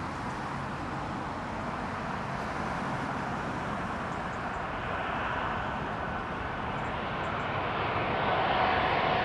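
Jet airliner on final approach, its engine roar growing steadily louder as it nears, with a thin whining tone coming in from about halfway.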